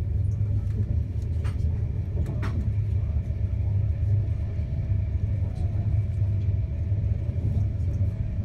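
Steady low rumble of an Enterprise intercity train running at speed, heard from inside the passenger carriage, with a couple of faint clicks about one and a half and two and a half seconds in and a faint steady hum coming in after the second click.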